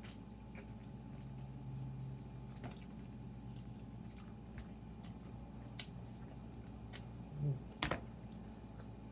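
Close-up chewing and biting of chicken wings and pizza, with scattered small mouth clicks. A sharp knock about eight seconds in is the loudest sound.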